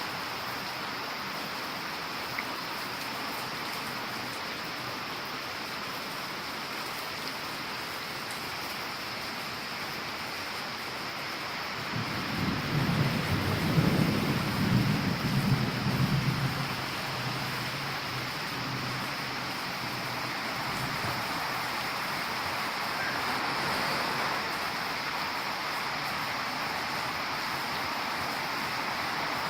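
Heavy rain falling steadily. A low rumble swells about halfway through and fades again after a few seconds.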